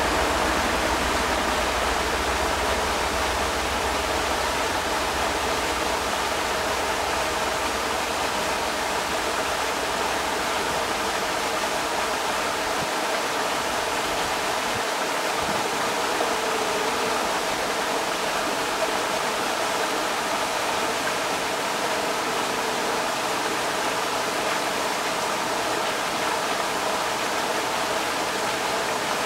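Creek water rushing steadily. A low rumble beneath it drops away about halfway through.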